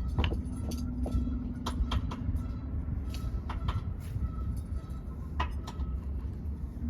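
A bunch of metal keys jangling, with irregular light clinks throughout, over a steady low rumble of outdoor background noise.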